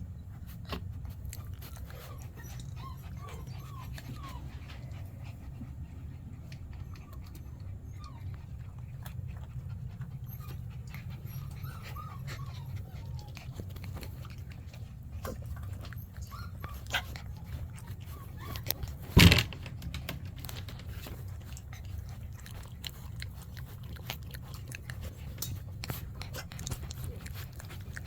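Golden retriever puppies whimpering and panting, with small high squeaks now and then over a steady low rumble and scattered clicks. A single loud sharp knock comes about two-thirds of the way through.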